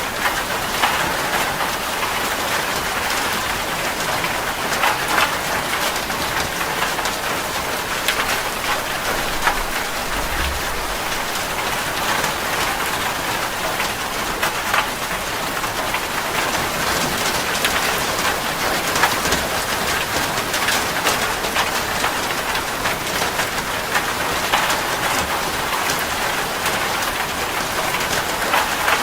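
Heavy rain pattering steadily on a metal roof, with many individual drops ticking sharply against the steady rush.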